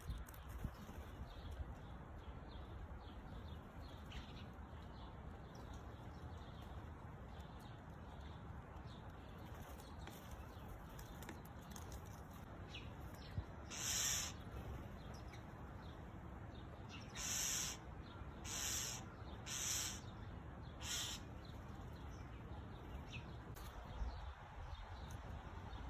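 A bird giving short, harsh calls, about half a second each: one about halfway through, then four more in fairly quick succession a few seconds later, over a steady low outdoor rumble.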